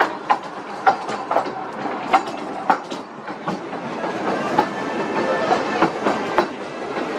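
Wheels of a vintage amusement-park train running over rail joints: a steady rolling rumble with sharp clicks at irregular intervals.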